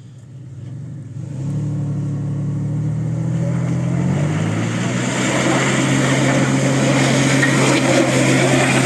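Off-road car engine revving up under load: the revs and loudness climb sharply about a second in and stay high, with a rush of noise building over the engine to the end.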